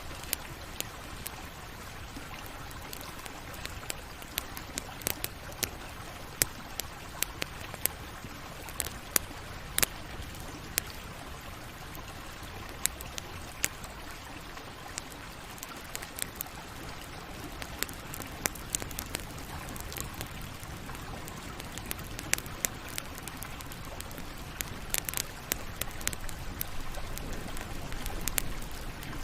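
Campfire crackling, with irregular sharp pops and snaps over a steady hiss of burning wood. The pops come in busier clusters at times.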